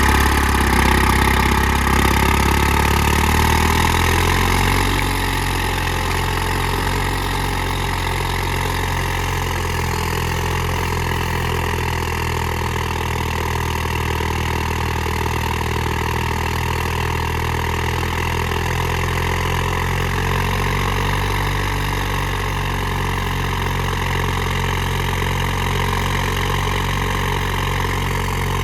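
Detroit Diesel 2-71 two-cylinder two-stroke diesel of an Allis-Chalmers HD5 crawler running, louder and faster for the first four or five seconds, then dropping to a steady lower speed.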